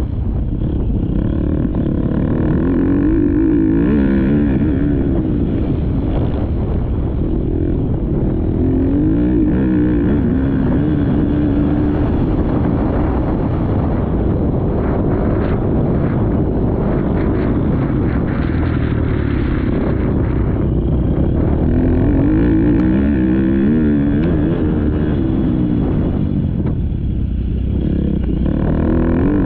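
Motocross dirt bike engine ridden hard round a track, revving up and down again and again as the rider works the throttle and gears.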